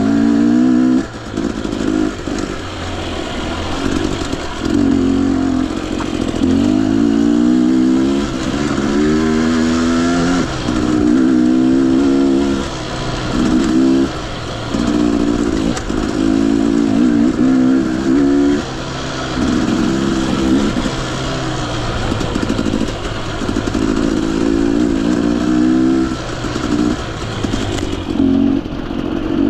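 Husqvarna TE 250i two-stroke dirt bike engine being ridden on and off the throttle, its pitch rising in repeated short pulls that break off every second or two.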